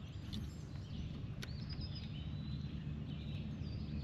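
Small birds chirping with short whistled notes over a steady low outdoor rumble, with a single sharp click about a second and a half in.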